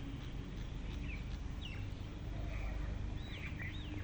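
Birds chirping: a few short chirps that rise and fall in pitch, over a steady low rumble.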